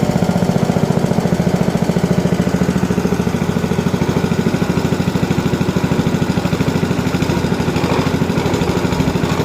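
Hydraulic press pump running steadily with a fast, even pulsing as it builds pressure to push a tire off its rim.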